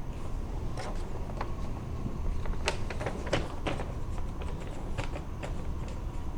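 A run of irregular sharp clicks and knocks over a steady low rumble, the loudest a little past halfway.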